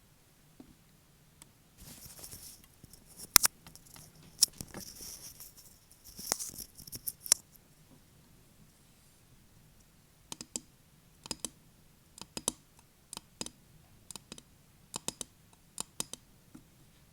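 Fake (acrylic-style) fingernails tapping on a hard object: irregular sharp clicks, with short bursts of scratching between taps in the first half, then sparser taps, often in quick pairs.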